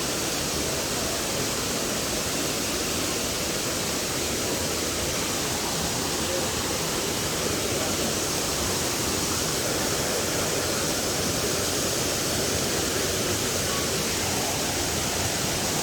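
Waterfall rushing steadily: an even, unbroken wash of falling water that does not change.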